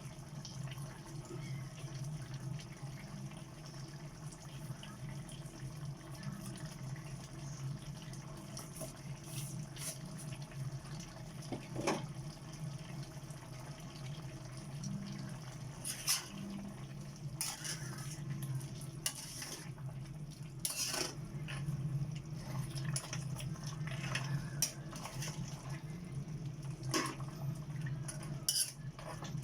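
Kitchen sounds: liquid sounds over a steady low hum, with scattered short clicks and knocks.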